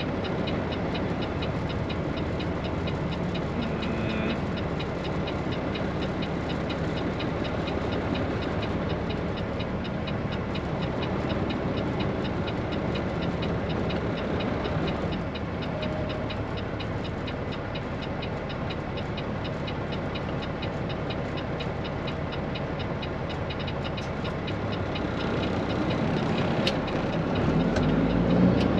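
Straight-piped Peterbilt 389 semi truck running down the road, loaded with soybeans: a steady drone of engine, exhaust and road noise. The engine note swells and shifts near the end.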